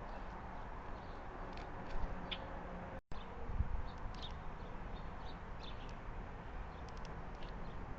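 Faint, short bird chirps scattered over steady outdoor background noise, with a couple of dull low thumps, one about two seconds in and one just after a brief cut about three seconds in.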